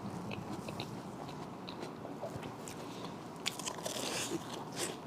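Close-miked biting and chewing of a deep-fried cream puff. The crisp fried shell crunches and crackles, with a denser run of crunching from about three and a half seconds in.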